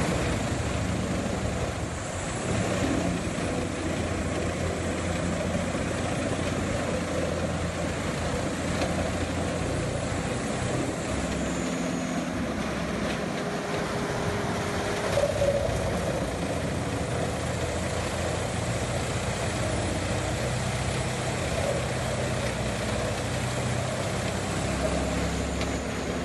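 Large wood chipper running steadily under load as logs are fed in and shredded into chips.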